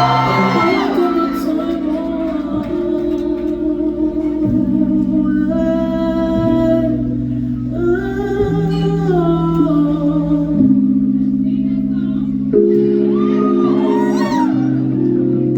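Live band playing slow, sustained chords over a bass line, changing every couple of seconds, with a singer's wordless vocal runs over them a few times.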